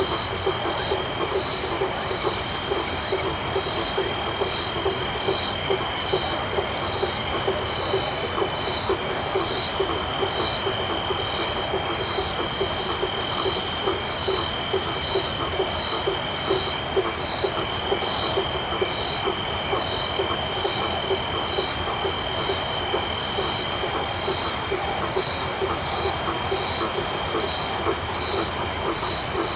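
Tropical night chorus of frogs and insects. A steady high insect trill runs under an evenly repeating pulsed call about once a second, with rapid low frog calls repeating throughout. Two brief faint high chirps sound near the end.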